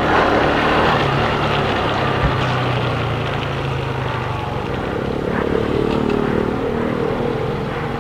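Motorcycle engine running steadily while riding, over a constant hiss of tyres and wind on a wet road. From about five seconds in, the engine note rises a little as it picks up speed.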